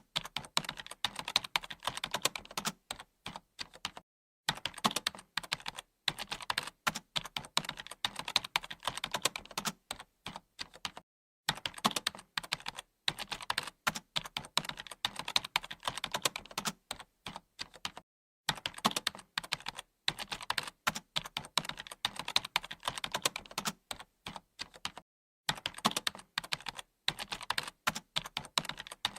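Computer keyboard typing: fast, continuous key clicks in runs of several seconds, with brief pauses about every seven seconds.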